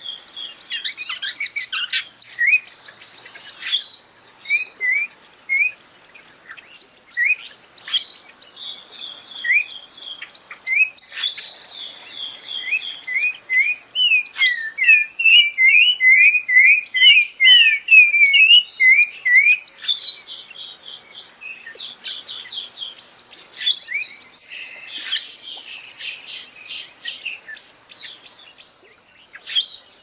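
Songbirds chirping and whistling: many short slurred notes, overlapping, with a dense run of quick chirps around the middle.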